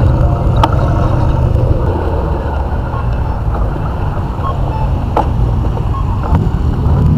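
Motorcycle engine running steadily with a low rumble, easing off a little in the middle and picking up again near the end.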